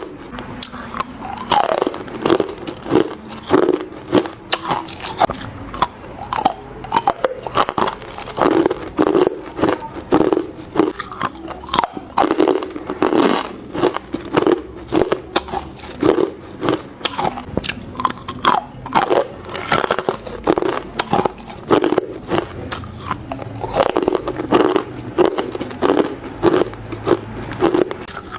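Hard ice cubes being bitten and crunched between the teeth close to the microphone, one sharp crack after another, several a second.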